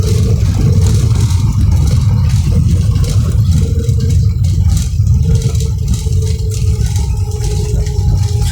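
Airliner cabin noise on the ground after landing: a loud, steady low rumble from the wheels and jet engines, with a steady engine hum and cabin fittings rattling.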